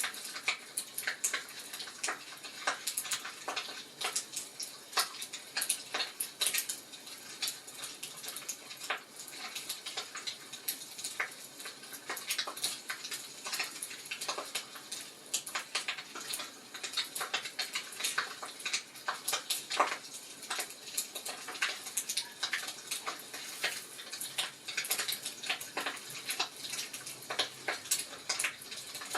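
Wood fire crackling in a fireplace: irregular pops and snaps over a steady hiss.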